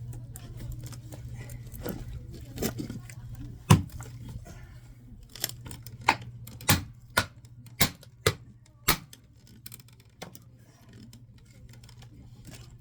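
Oak logs being chopped into kindling: about nine sharp, separate strikes of a blade into the wood, the loudest about four seconds in, then a quick run of blows about half a second apart, over a steady low hum.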